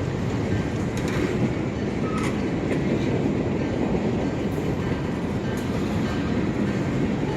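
Freight train passing, its cars rolling by with a steady rumble of wheels on the rails and a few sharp clicks in the first three seconds.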